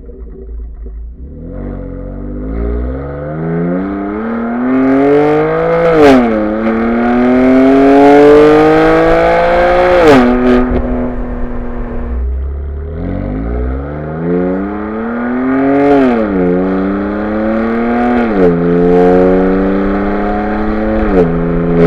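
BMW M4 Competition's twin-turbo straight-six, through an M Performance titanium exhaust, accelerating hard up through the gears twice. The pitch climbs and falls back at each upshift, with sharp cracks at several of the shifts.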